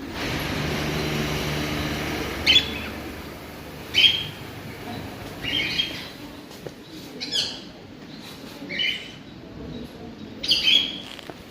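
A bird giving a short, sharp call over and over, about every one and a half seconds, a few of the calls coming in quick pairs. For the first two and a half seconds a steady noise with a low hum sits underneath.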